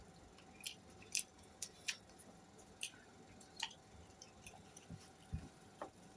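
Close-up eating sounds of chewing, with irregular sharp wet clicks and smacks from the mouth.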